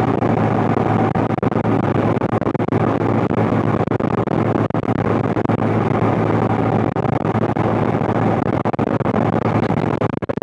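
1993 John Deere 8970 tractor's six-cylinder Cummins diesel running steadily while pulling a turbo-till through the field, a constant low drone with a crackle through it.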